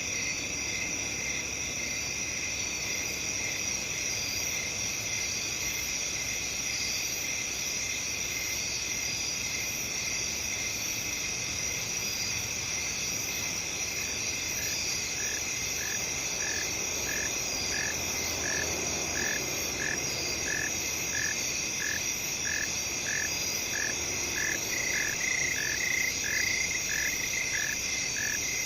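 Night-time field ambience: a dense, steady chorus of crickets and other insects trilling. About halfway in, a higher, regular chirping call joins, repeating about twice a second.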